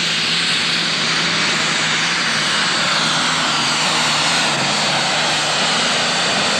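Turbocharged super stock pulling tractor engine running steadily at full throttle as it pulls the sled down the track.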